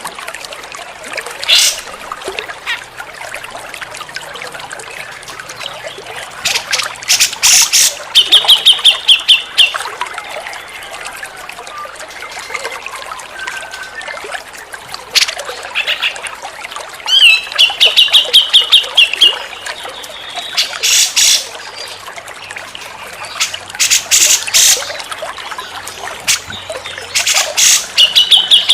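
Grey-cheeked bulbul (cucak jenggot) singing: rapid high trilled phrases, each a second or two long, come three times, with clusters of loud, harsh, rapid-fire notes between them, over a steady trickle of running water.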